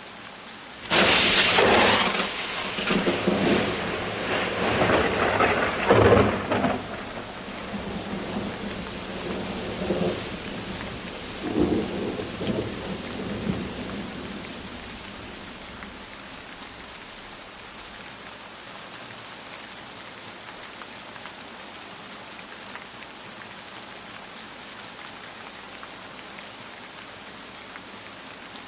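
Steady rain with a thunderclap: a sudden loud crack about a second in, then rolling rumbles that die away around halfway through, leaving the even hiss of rain.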